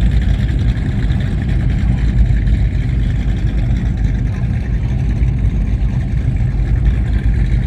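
High-performance powerboat engines running loudly and steadily, a deep, low sound without any clear revving.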